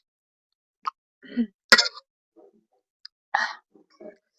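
A few short coughs and sharp breaths from a person reacting to very spicy noodles, the loudest about two seconds in and another about three and a half seconds in.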